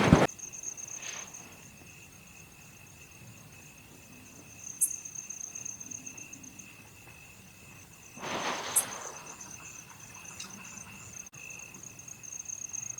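Night crickets trilling steadily in two high pitches, with a brief rustle or scrape about eight seconds in and a few faint clicks.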